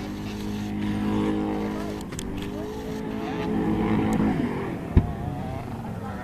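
Vehicle engine running at a steady pitch, then winding down about four seconds in, with one sharp knock about five seconds in.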